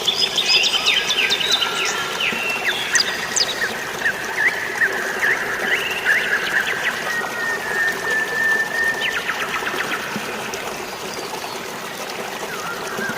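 Songbirds chirping and trilling in quick runs, busiest in the first few seconds, with a longer held note partway through, over a steady rush of water.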